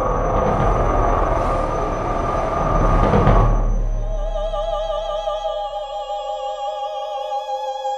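A dense wash of noise over a deep rumble swells and then cuts off suddenly about three and a half seconds in. Two women's voices then take over, holding long operatic notes in harmony with wide vibrato.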